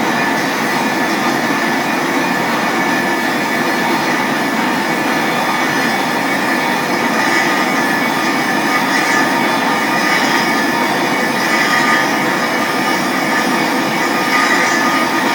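RT 50-110 pipe rust-cleaning machine running steadily while it cleans the rust off a pipe or screw pile.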